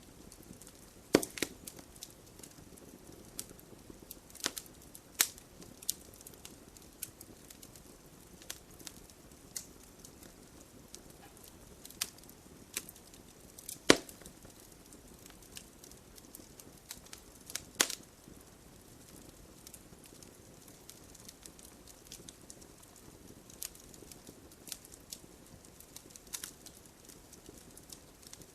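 Logs burning in a fireplace, crackling with irregular sharp pops over a faint steady hiss. A few pops stand out louder, about a second in, around the middle and a little after.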